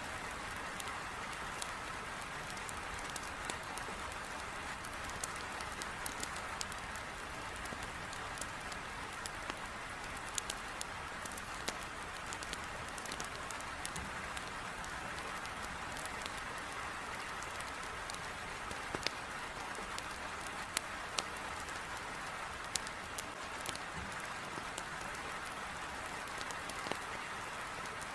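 Heavy rain pouring steadily, with irregular sharp pops and crackles from a wood fire burning in a fireplace.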